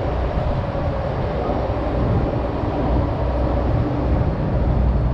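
Steady loud rumble of aircraft engines with a faint steady whine over it. It cuts off suddenly at the end.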